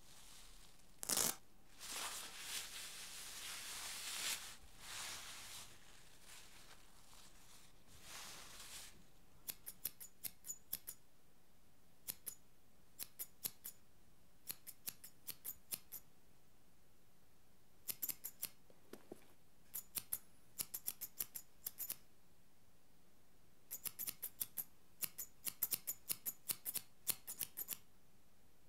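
Barber's scissors snipping hair in quick runs of three to six snips, a short pause between runs. Before the snipping begins there are several seconds of rustling and hissing, with one sharp click about a second in.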